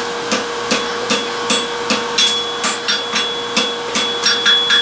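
Hand hammer striking hot steel on an anvil in a steady rhythm, about two to three blows a second, upsetting a forge-welded ring as it is forged into a square.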